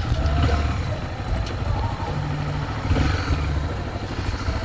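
Honda XRE 300's single-cylinder engine running as the bike is ridden, a steady low rumble with no clear rev changes.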